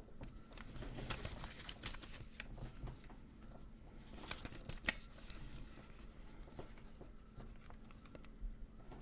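Hands handling small objects: two spells of rustling with light clicks, the first about a second in and the second around four to five seconds in, with one sharper click near the middle, over a faint steady hum.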